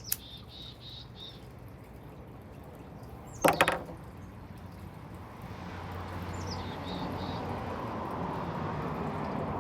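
A small songbird repeats a short phrase three times, a quick downward sweep followed by a few even notes. A brief loud clatter sounds about three and a half seconds in, and from about halfway a low rushing noise swells and holds.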